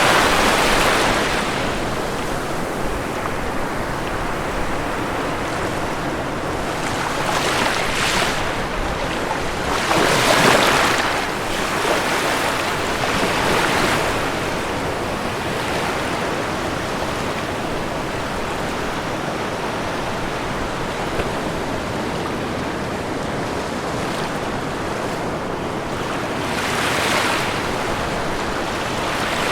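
Ocean waves breaking on a shore: a continuous wash of surf with louder swells rolling in every few seconds, strongest about ten seconds in and again near the end.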